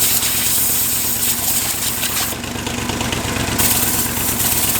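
Chevrolet 283 small-block V8 running on only one cylinder head, so just four cylinders firing, with the lifters of the headless bank bare. It is a steady run with rapid firing pulses and a hiss over it.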